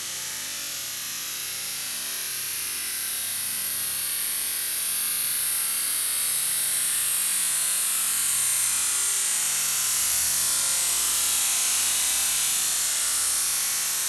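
Paint being applied to wood, heard as a steady high hiss that grows slightly louder over the first few seconds.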